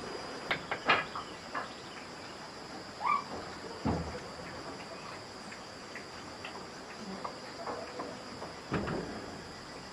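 A steady, high-pitched insect chorus, crickets by the sound of it, with a few scattered knocks and clicks from work nearby.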